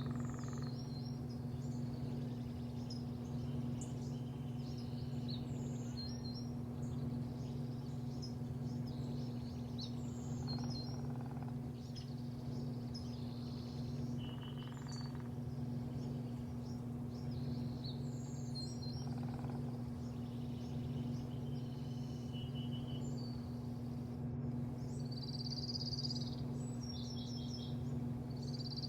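Small birds chirping and trilling again and again over a steady low mechanical hum.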